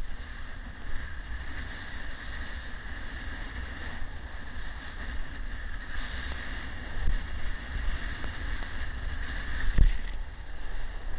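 Wind buffeting the microphone, a rough, uneven low rumble, with a short low thump near the end.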